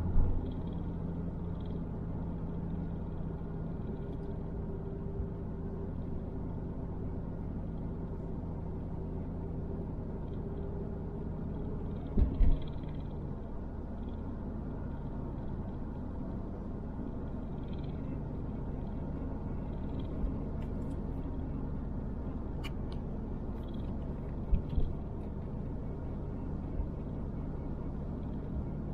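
A car driving slowly, heard from inside the cabin: a steady low engine and road hum, with a couple of short thumps about twelve seconds in and twice more near the end.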